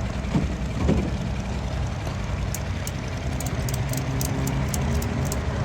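A motor vehicle's engine running steadily with a low hum, with a few faint sharp clicks in the second half.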